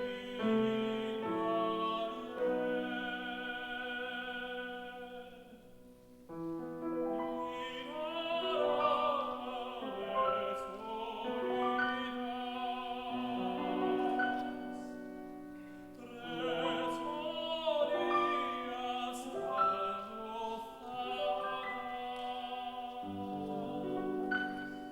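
Tenor singing a Spanish art song with piano accompaniment, holding notes with vibrato. The music thins briefly about six seconds in, then the voice comes back in.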